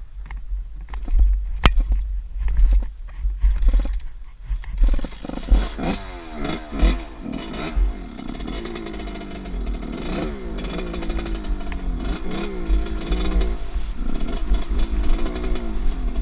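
Off-road motorcycle engine revving up and down repeatedly, the pitch rising and dropping as the throttle is worked, with wind buffeting the microphone. The engine becomes loud about five seconds in, after a stretch of mostly wind rumble and a few clicks.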